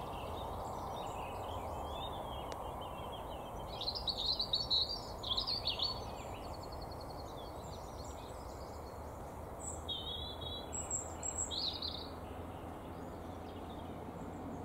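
Small wild birds singing in short bursts of high chirps and a brief trill, loudest about four to six seconds in and again about ten to twelve seconds in, over a steady low background rumble.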